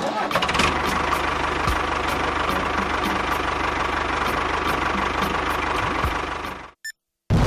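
A motor running steadily, with a fast even pulsing and a held whine, that cuts off suddenly near the end.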